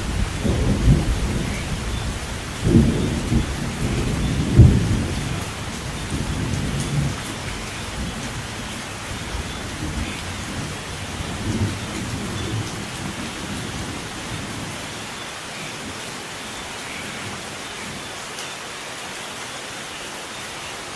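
Steady rain with rolling thunder: low rumbles swell and fade, the strongest about three and four and a half seconds in, then die away under the rain's hiss.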